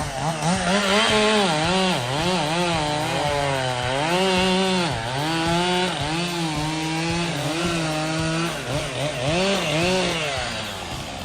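Chainsaw cutting wood, its engine pitch repeatedly dipping and recovering as the chain loads in the cut. The pitch drops off about eight and a half seconds in, rises again briefly, then falls away near the end.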